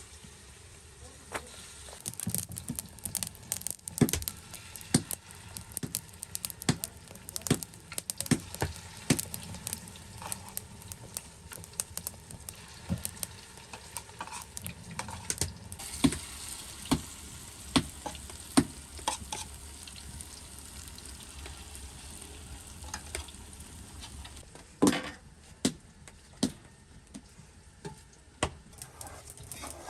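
Food sizzling in a pan while it is stirred, with many irregular clinks and scrapes of a utensil against the pan.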